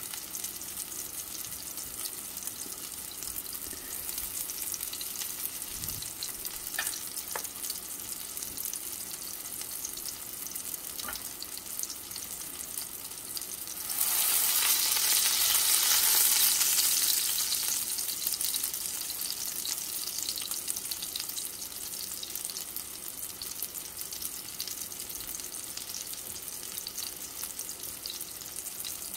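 Beef chapli kebabs shallow-frying in a little oil, a steady sizzle. About halfway through, one patty is turned over with a metal spatula and the sizzle surges loudly for a few seconds, then settles back.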